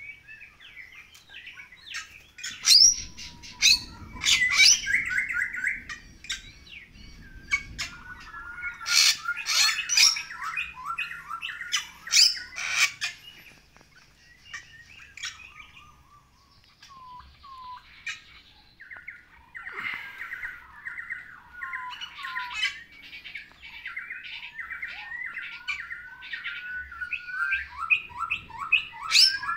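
Bali myna (Bali starling) singing loudly: harsh squawks and sharp whistled notes. About halfway through it goes quieter for a few seconds, then comes a fast run of short chattering notes.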